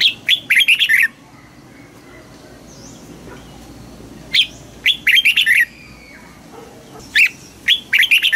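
Red-whiskered bulbul singing: three short, loud phrases of quick up-and-down whistled notes, a few seconds apart.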